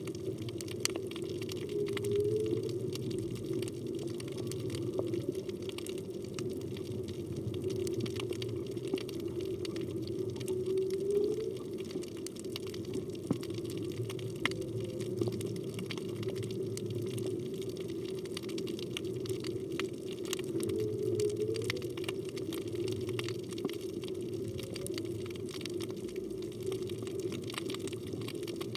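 Underwater sound on a reef: a steady wash of water noise full of fine crackling clicks. Humpback whale calls rise briefly through it about four times, each lasting about a second.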